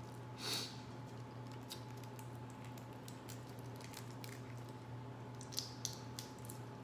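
Seafood-boil shells being cracked and peeled by hand: small wet snaps, clicks and squishes, with a louder crack about half a second in and a cluster of snaps near the end, over a steady low hum.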